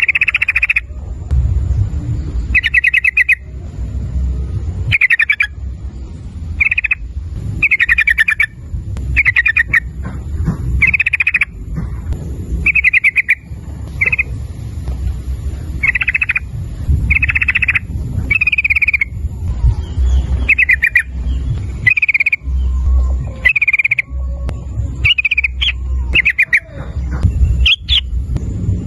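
Yellow-vented bulbul (trucukan) singing in short, rapid chattering phrases, about one a second, over a steady low rumble.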